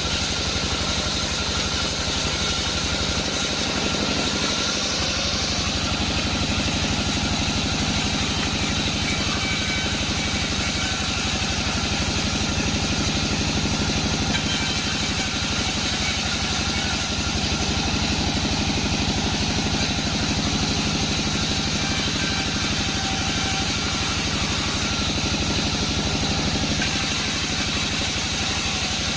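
A sawmill's engine running steadily at a constant speed, with an even, unbroken drone throughout.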